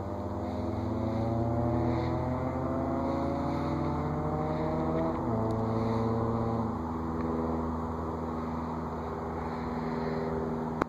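An engine running as a steady hum of several tones. Some of the tones glide slowly upward, and the pitch steps down about five seconds in.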